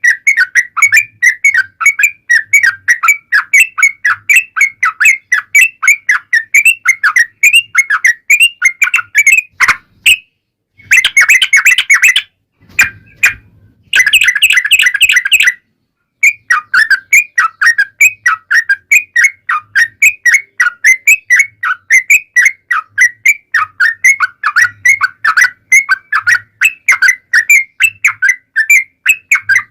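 Yellow-vented bulbul (trucukan) singing a long rapid run of short bubbly chirps, about three to four notes a second, a lure song played to make other bulbuls answer. About a third of the way in, the run breaks into two dense bursts of chatter with short gaps between them, then the steady rapid notes resume.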